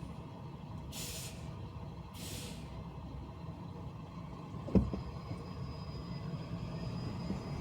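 Steady low rumble of a car driving in city traffic, with two short sharp hisses about a second apart near the start and a single thump about halfway through.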